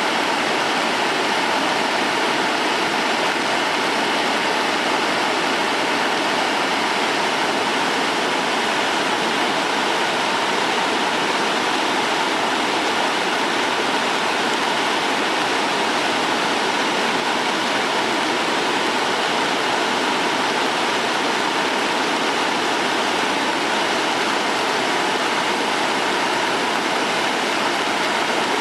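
Sogi Falls on the Sendai River, swollen with rain, giving a loud, steady rush of falling water with no let-up.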